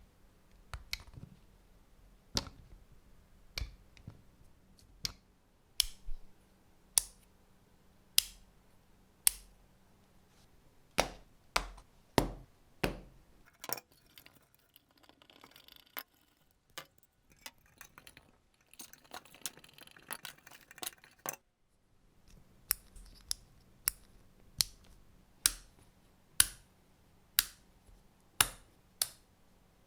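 Sharp clicks and knocks of small hard parts being handled and fitted by hand, about one a second and unevenly spaced, with a few seconds of softer scraping or rubbing in the middle.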